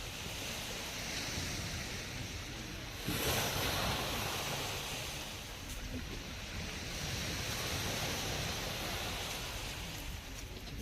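Black Sea surf: waves washing onto the shore, with one louder wave breaking about three seconds in.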